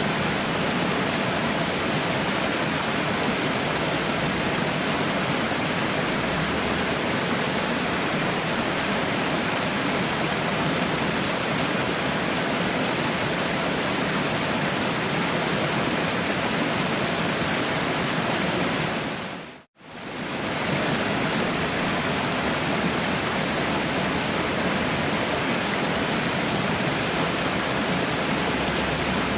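Waterfall: a steady, even rush of falling water. About two-thirds of the way through it briefly fades out to near silence and straight back in.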